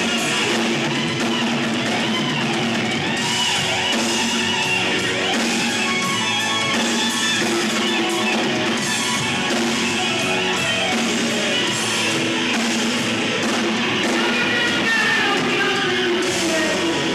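Live rock band playing: guitar and drum kit at a steady, full level, with the guitar line bending in pitch throughout.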